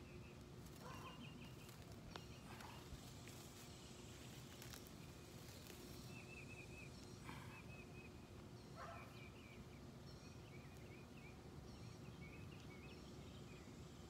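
Faint birds chirping in short repeated trills over quiet outdoor background noise, with a few faint clicks.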